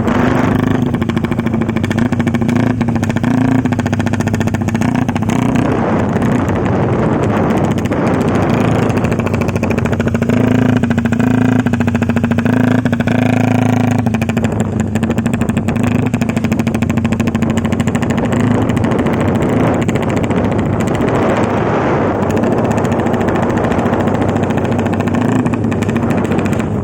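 Honda CB150R's single-cylinder engine held at a steady high rev on its remapped ECU's 'helicopter mode', a rapid chopping sound from the rev limiter cutting in and out. The pitch and loudness hold nearly constant throughout.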